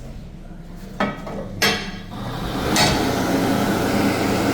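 Two sharp clacks, then a Bobrick B-750 AirCraft electric hand dryer starts a little after two seconds in and blows steadily with a loud, even rush of air.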